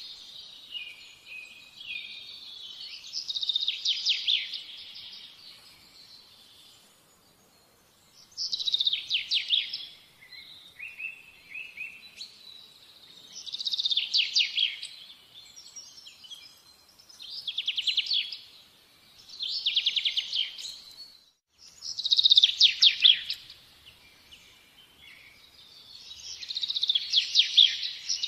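A songbird singing: phrases of rapid, high trilled notes, each a second or two long, repeating every few seconds, with a quieter pause of a couple of seconds about a third of the way in.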